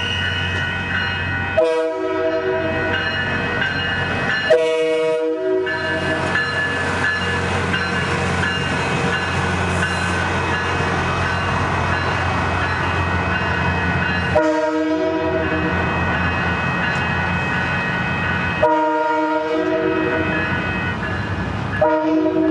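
A train sounds its horn in long blasts as it runs through a grade crossing, over a low rumble of engine and wheels.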